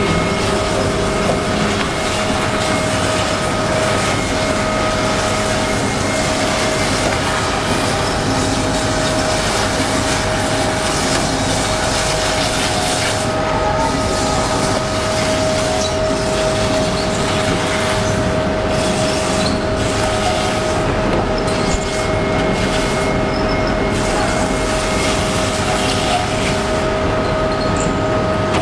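Veneer edge grinding machine running steadily: a loud constant machine noise with a held whine that does not change.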